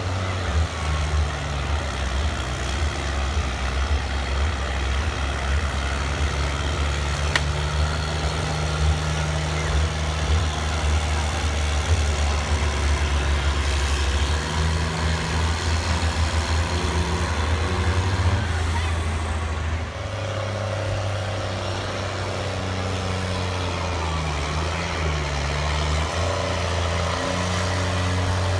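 Farm tractor's diesel engine working hard under load as it pulls a weight sled, running steadily loud. The engine note shifts in pitch a couple of times along the way.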